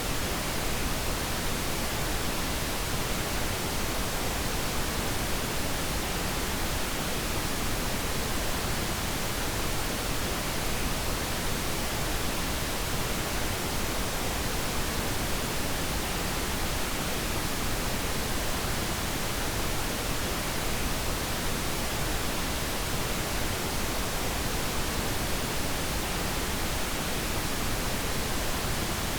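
Steady synthetic noise played as a sleep aid: an even hiss spread across all pitches that never changes.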